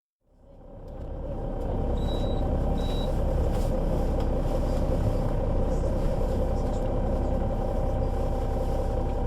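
Solaris Urbino 12 III city bus with a Voith automatic gearbox, its engine running steadily as the sound fades in over the first second or two. Two short high beeps come about two and three seconds in.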